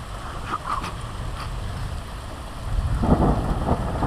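Heavy rain falling steadily during a thunderstorm, with a peal of thunder starting to rumble in about three seconds in and getting louder.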